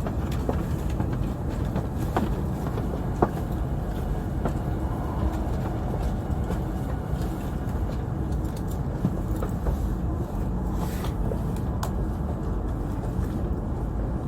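Steady low rumble of an E5-series Shinkansen running at speed, heard from inside the passenger cabin, with a few faint clicks.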